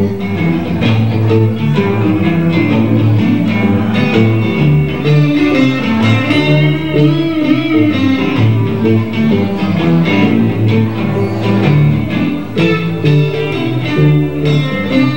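Live blues band playing an instrumental break, with electric guitar over bass guitar and a steady beat.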